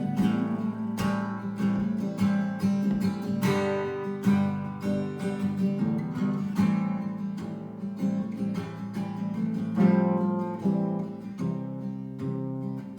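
Acoustic guitar strumming chords, about two strokes a second, with no singing.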